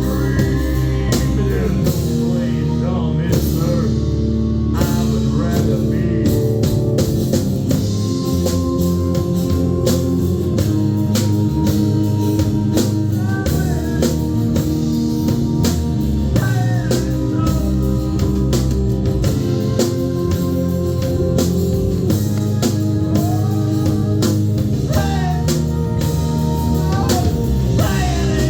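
Rock band playing a song live: drum kit and guitar keep a steady beat, with a voice singing at times.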